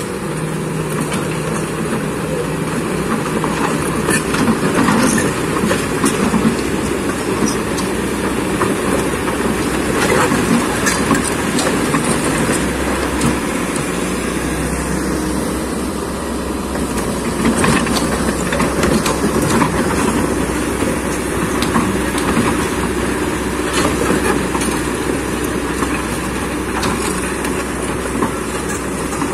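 Kobelco excavator travelling on its steel tracks, the diesel engine running under a steady clatter and clanking of the track links, as it tracks back and forth to flatten and firm up the ground.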